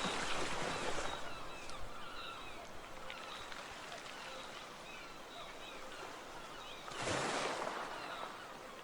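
Many birds calling in short chirps over a steady rush of water, with a louder surge of water noise about seven seconds in.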